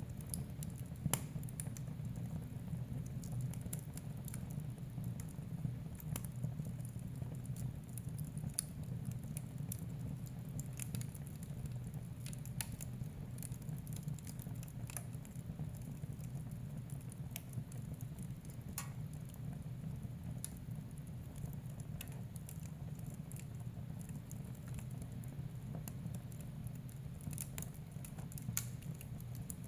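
Wood fire burning in a fireplace: irregular crackles and sharp pops over a steady low rumble of the flames, with one louder pop about a second in.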